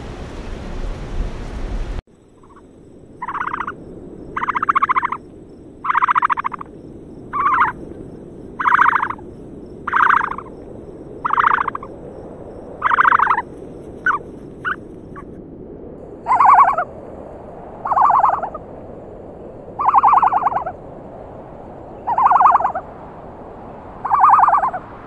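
A bird giving about fifteen short, buzzy calls, one every second or so, after a burst of noise that cuts off about two seconds in.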